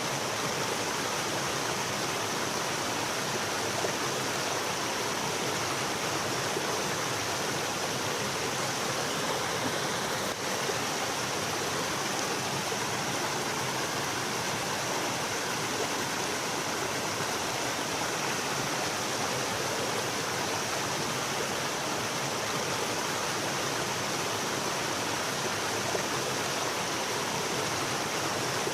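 Mountain valley stream running steadily over rocks, a continuous rushing of water.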